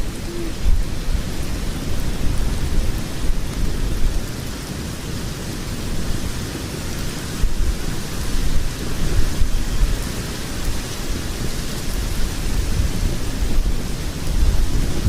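Logs burning in a fireplace: a steady, low rumbling roar of the fire with faint crackling.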